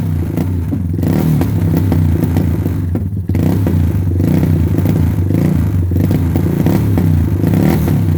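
Suzuki LT230S quad's small single-cylinder four-stroke engine running after a cold start, its pitch wavering a little as it runs, with a brief dip in level about three seconds in.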